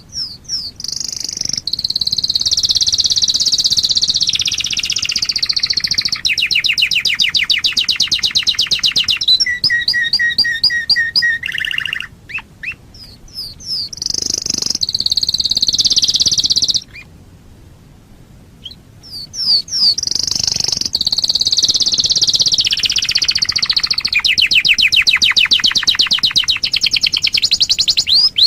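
Domestic canary singing long song phrases of fast rolls and rapid trills, with a break of about two seconds past the middle before it sings on.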